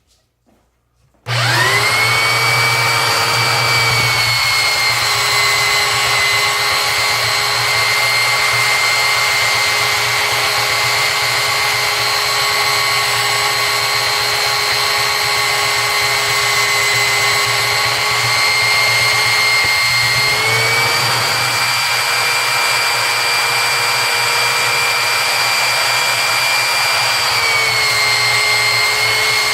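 Tacklife 3 x 18 in variable-speed belt sander, mounted upside down, switched on about a second in and running with a steady motor whine while a 2x4 is sanded on its belt. The whine sags slightly in pitch a few times as the wood loads the belt.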